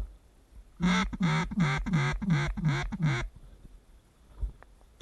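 A run of seven loud, nasal, mallard-style duck quacks, evenly spaced at about three a second, each dropping in pitch.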